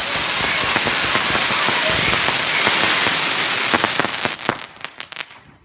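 Celtic 'Slow then Go' firework cake crackling densely, a rapid patter of tiny pops that thins to a few last cracks about four seconds in and then dies away as the effect finishes.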